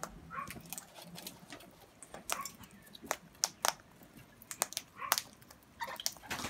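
Birds' beaks tapping and pecking at seed on a feeder: irregular sharp clicks, with a few short whimpers from a pet dog.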